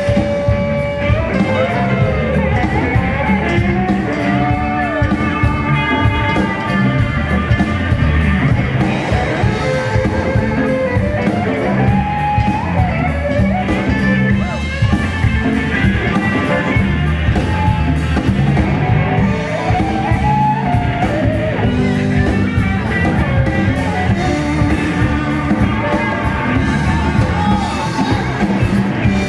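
A live rock band playing, with electric guitar lines over bass and drums and some singing.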